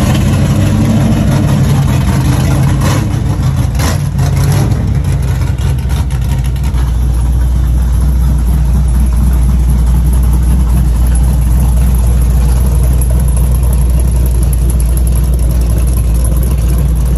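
A motor vehicle engine running at idle with a deep, steady low rumble.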